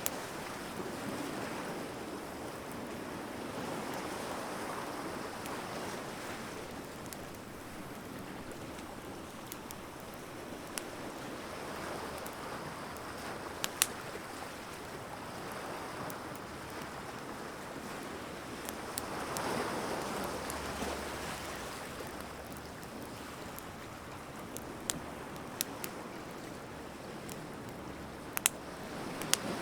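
Wood bonfire crackling, with scattered sharp pops (the loudest about halfway through and near the end), over a steady wash of ocean surf that swells and fades every several seconds.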